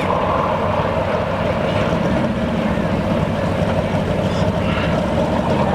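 Modified two-wheel-drive pulling truck's engine running steadily without revving while it is being warmed up after giving trouble.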